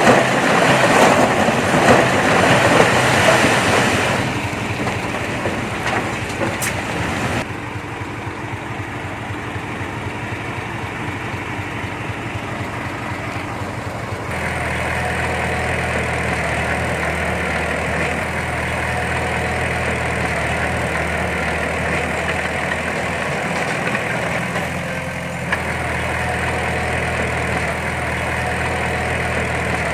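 Heavy diesel engine of earthmoving machinery running, louder and rougher for the first four seconds, then settling into a steady hum whose note shifts abruptly a few times.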